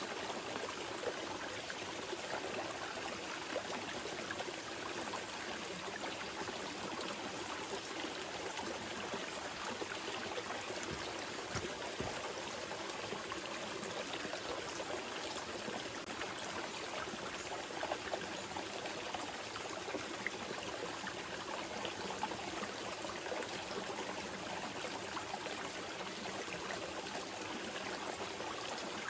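A small mountain river flowing steadily over rocks, an even rush of water with small trickles and splashes in it.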